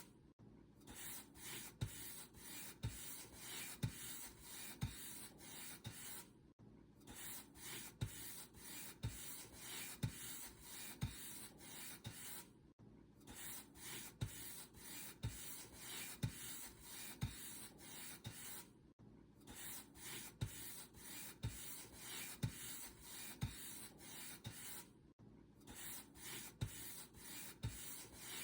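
Paint brush strokes, the bristles swishing back and forth over a surface at about one to two strokes a second, each with a soft knock. The strokes break off briefly about every six seconds.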